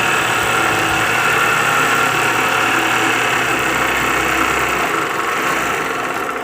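Sewing machine running steadily through denim, sewing a zigzag stitch.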